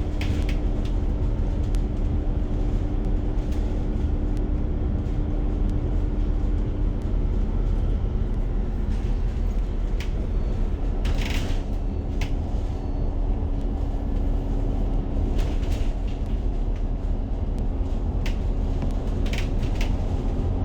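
A bus under way, heard from inside: a steady low rumble of engine and road with a constant hum that drops slightly in pitch partway through, and a few short rattles in the second half.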